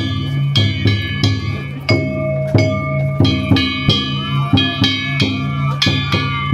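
Danjiri festival music: drums and metal hand gongs struck in a quick, steady rhythm, each gong stroke ringing on with bright metallic tones.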